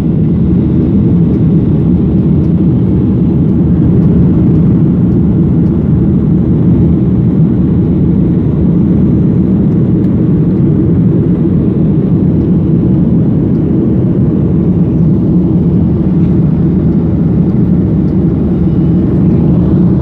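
Boeing 737-800 jet engines running at a steady, loud low rumble, with no change in pitch or level.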